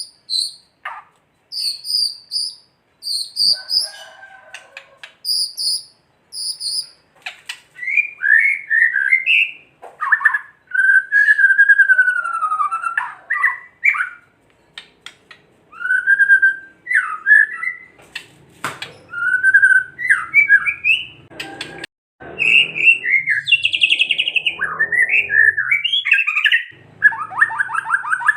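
White-rumped shama (murai batu) singing: a run of short, high repeated notes, then varied whistled phrases that slide up and down in pitch, ending in a fast rattling trill.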